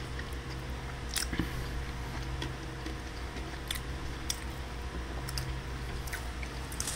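A person chewing a mouthful of crispy fried chicken sandwich: scattered soft crunches and mouth clicks over a steady low hum.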